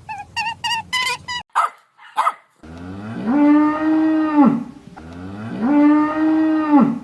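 Cow mooing twice: two long moos, each sliding up in pitch and then held steady, with a short gap between them. Before them, a quick run of short high-pitched calls.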